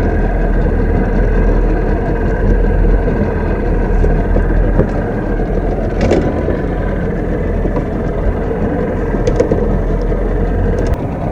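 Boat engine running steadily under way while trolling, with a loud, even wash of engine and water noise. There is a single sharp tick about halfway through.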